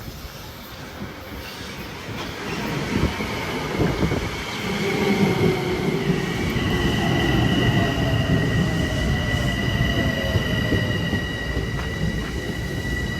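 Metro-North commuter train passing close by, growing louder over the first few seconds, with wheels clicking over the rail joints. A steady high wheel squeal sets in about halfway through, and a lower whine slowly falls in pitch.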